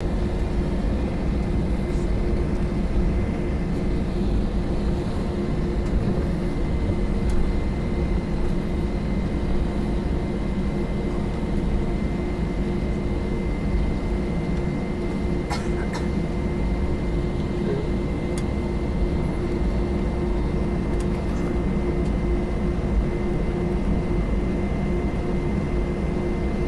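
Steady cabin noise inside an Airbus A320: a low rumble with a thin, steady whine above it and a few faint clicks. The level holds even throughout, with no build-up of engine power.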